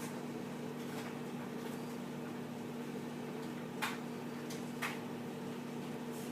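Microwave oven running with a steady hum while it heats a bar of Ivory soap that is puffing up. Two short clicks come about a second apart, a little past the middle.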